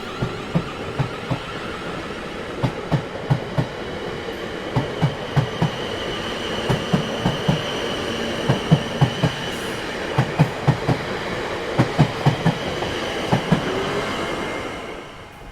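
Train passing, its wheels clattering over rail joints in quick clusters of thumps over a steady rumble, with a faint high whine from the wheels. The sound cuts off abruptly at the end.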